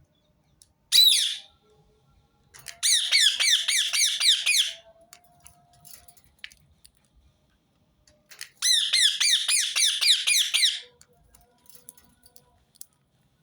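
Rose-ringed parakeet calling: one short shrill call, then two runs of rapid, repeated falling screeches, each about two seconds long.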